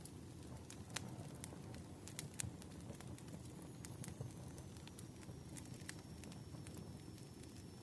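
Wood fire crackling: irregular sharp pops and snaps over a low steady rumble of burning logs. A faint high whistle comes in about halfway and sinks slightly in pitch.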